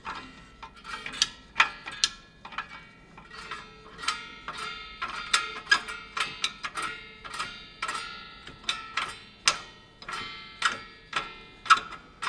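Irregular metallic clicks, about one or two a second, each with a short ring: the Lexus GS300's rear parking-brake shoe adjuster (star wheel) being turned back through the brake disc to slacken the shoes.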